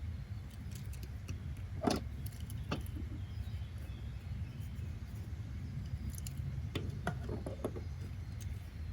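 Steady low background rumble with a few scattered light clicks and taps, and a short cluster of them about seven seconds in.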